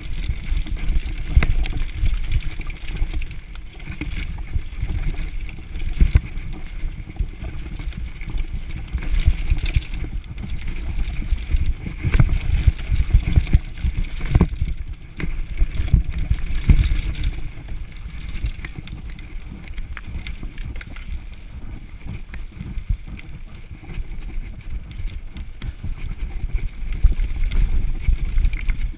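Mountain bike riding down a rough downhill trail: tyres rolling over the trail surface, the bike rattling with frequent knocks over bumps, and wind buffeting the microphone.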